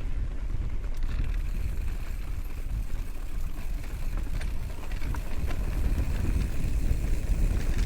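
Wind rushing over the microphone on a fast downhill bicycle ride, with the bike clicking and rattling over the road.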